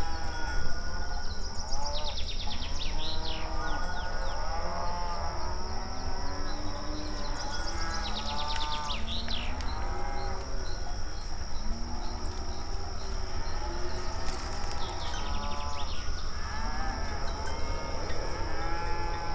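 A herd of cattle mooing, many calls overlapping almost without a break, each rising and falling in pitch.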